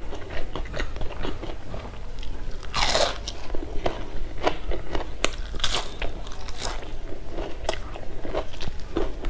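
Crunchy bites and chewing of a crisp, deep-fried arrowroot-flower fritter, close to the microphone: many small crackles, with the loudest crunch about three seconds in.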